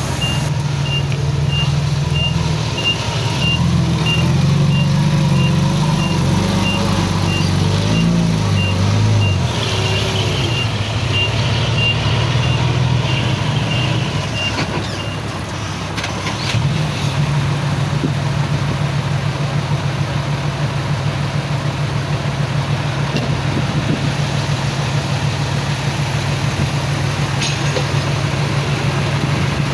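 Heavy diesel engine of earthmoving machinery working, its pitch shifting under load for the first nine seconds, then running steadily after a brief dip about halfway. A reversing alarm beeps about twice a second for the first fifteen seconds.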